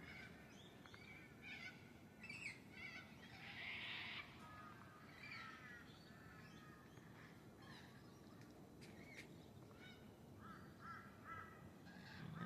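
Faint cockatoo calls: scattered harsh squawks and screeches, with a longer rasping screech about four seconds in and a quick run of short calls near the end.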